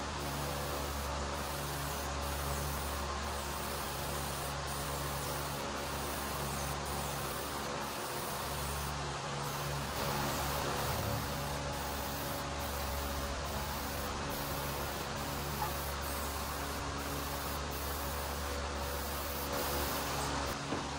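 An electric motor running steadily with a rushing, whooshing noise and a low hum, without let-up.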